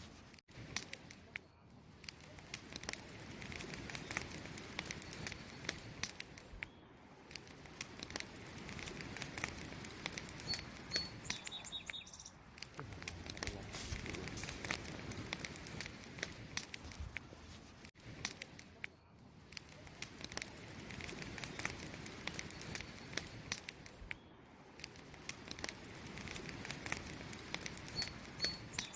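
Campfire crackling with many irregular pops and snaps, over continuous cricket chirping. A couple of short high chirps sound about ten seconds in and again near the end.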